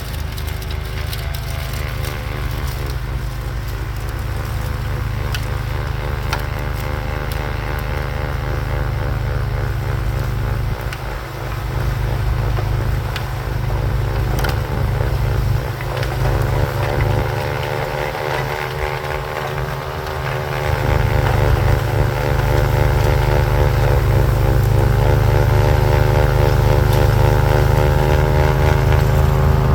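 Craftsman YT4000 lawn tractor engine running under load while driving a front-mounted 44-inch Bercomac snowblower through heavy wet snow. Its pitch sags briefly a little past halfway and again near the end as the engine takes on load, and the running grows slightly louder toward the end.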